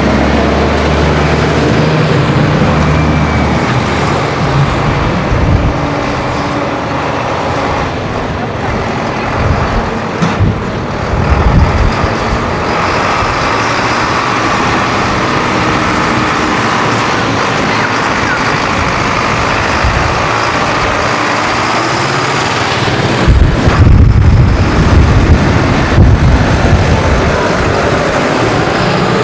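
Diesel tractor engines running as tractors drive along the road in convoy, with a louder low rumble about three quarters of the way through.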